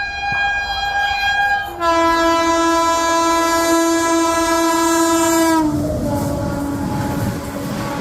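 Indian express train's locomotive horn, first a higher tone, then about two seconds in a louder, lower blast held for about four seconds. Its pitch drops as the locomotive goes past at speed, and the coaches rumble and clatter by.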